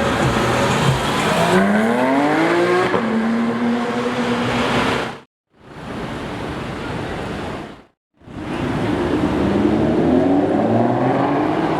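Porsche 911 GT3 RS flat-six accelerating hard, revs climbing and then dropping at an upshift about three seconds in. The sound cuts out abruptly twice, and the engine note climbs again near the end.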